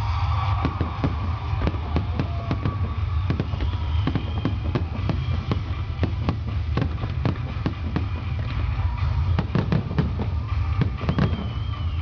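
Fireworks display: a dense run of bangs and crackles from bursting aerial shells and crackling stars, several reports a second over a steady low rumble.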